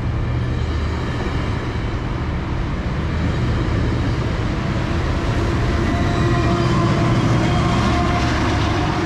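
GO Transit double-decker passenger train moving past along the platform: a steady rumble of wheels on the rails with faint whining tones.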